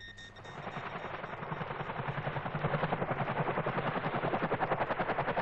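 Helicopter rotor beating in a rapid, even pulse. It fades in over the first couple of seconds, then holds steady.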